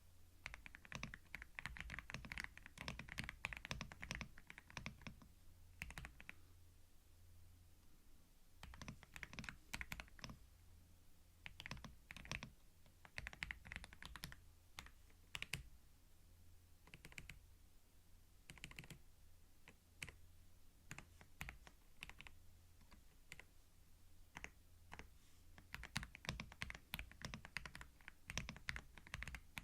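Typing on a computer keyboard close to a binaural microphone: quick runs of key clicks broken by short pauses.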